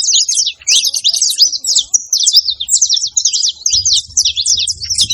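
Saffron finch singing: a rapid, unbroken run of quick high chirps and sweeps. A faint low rumble comes in near the end.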